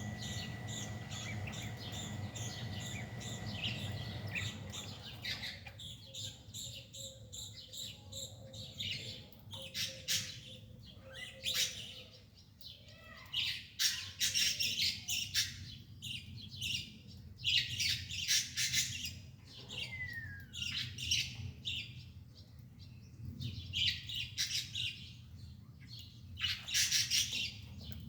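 Birds chirping in quick, repeated high calls, a few of them sliding down in pitch, over a low steady hum.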